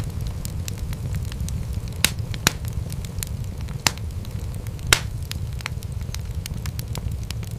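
Wood fire crackling in a fireplace: a steady low rumble of flames under many small snaps and pops, with louder pops about two seconds in and the loudest just before five seconds in.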